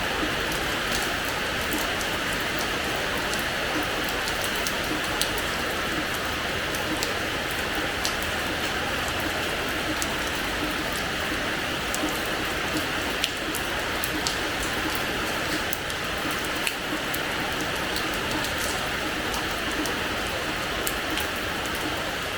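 Steady rain falling on a hard terrace floor, a constant hiss with many separate drop ticks scattered through it.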